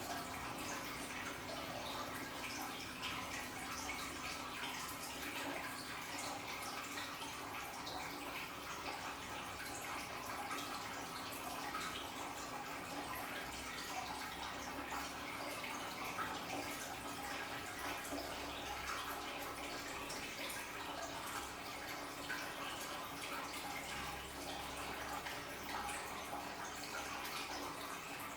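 Aquarium waterfall trickling and splashing steadily, with a constant spatter of droplets and a faint steady hum underneath.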